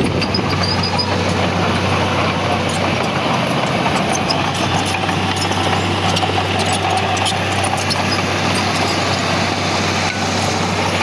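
Heavy diesel engine of earthmoving machinery running steadily with a constant low hum, with scattered light clicks and rattles over it.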